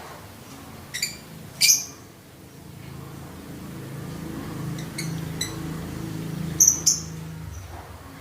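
Streaked weaver giving short, sharp call notes in three pairs: one pair about a second in, one about five seconds in, one near the end. A low steady hum sits beneath the calls through the middle.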